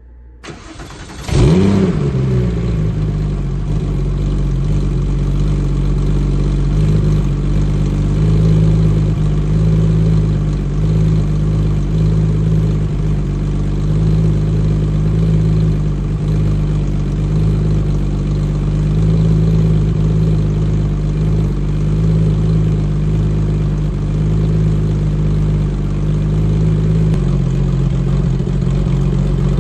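Porsche 996 GT3's flat-six engine cold-started: it catches about a second in and flares up briefly, then settles into a steady fast idle. Near the end the idle steps down slightly as the engine begins to warm.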